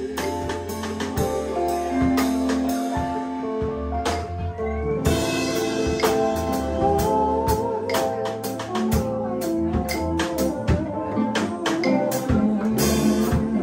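Live band playing a jam: a drum kit keeps a steady beat under bass and sustained melody notes, with one note bent up and down about halfway through.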